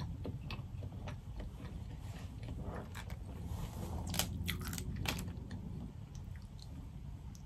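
Chewing, with sharp clicks and crackles of boiled crawfish shell being broken and peeled by hand, thickest about three to five seconds in.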